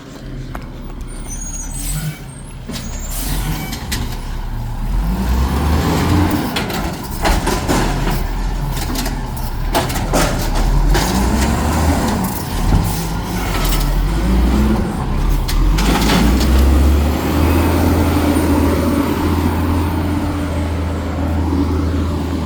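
Garbage truck's diesel engine revving hard as it works trash, its pitch swinging up and down several times and then held high near the end, with scattered clanks and knocks.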